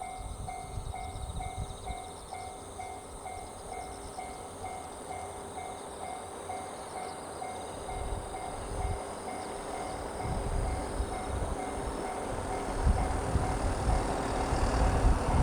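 Railway level-crossing warning bell ringing in a quick, even repeat, about two to three dings a second. The rumble of the approaching 87 series Twilight Express Mizukaze train grows louder toward the end and begins to cover the bell.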